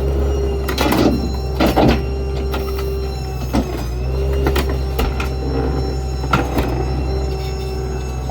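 Ford F-550 rear-load garbage truck running steadily with a constant hum and whine, while dumped debris knocks and clatters several times, loudest about a second and two seconds in.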